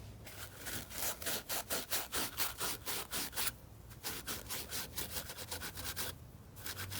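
Quick back-and-forth scrubbing strokes, about five a second, as an engine part from a Honda XR250L head is rubbed clean by hand. The strokes stop briefly twice.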